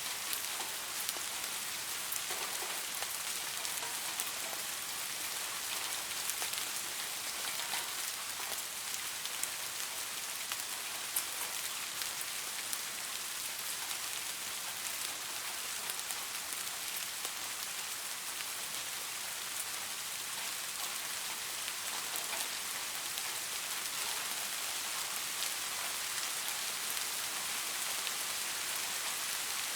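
Steady light rain falling, an even hiss dotted with the small ticks of individual drops hitting a surface.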